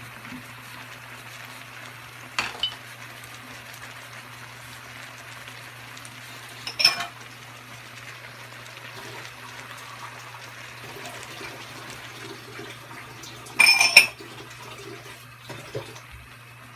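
Vegetables cooking in a frying pan with a steady low sizzle. Sharp clinks of kitchenware come twice, and a louder clatter follows about three-quarters of the way through.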